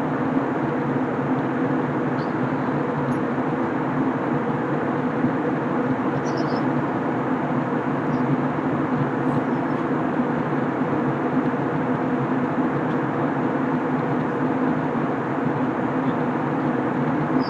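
Steady cabin noise of an Airbus A321 in flight: an even roar of engines and airflow with a steady low hum.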